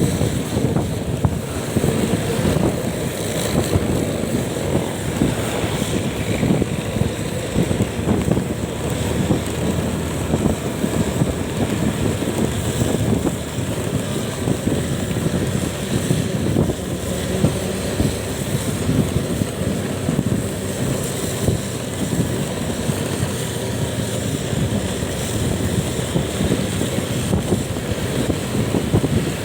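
Wind buffeting the microphone on a moving vehicle, over steady engine and road noise.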